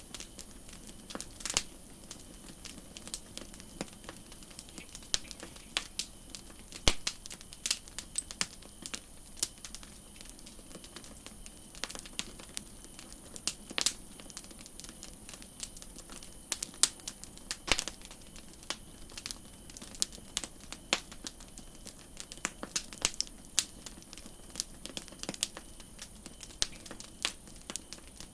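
Campfire crackling: irregular sharp pops and snaps from burning wood, some loud, over a steady low hiss.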